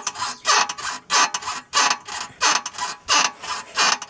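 Front suspension of a VW Fusca (Beetle) squeaking in a steady rhythm as the car is worked up and down, about three squeaks every two seconds. It is a creak rather than a knock, which began after the car drove through standing water and which the owner thinks comes from the upper ball joint.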